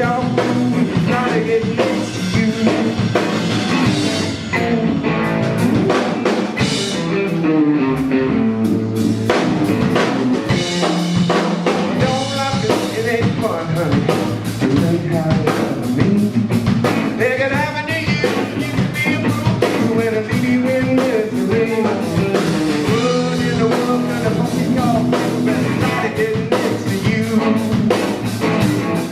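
Live rock band playing a riff-based blues-rock tune: electric guitar, bass and drum kit, with a singer's voice over it.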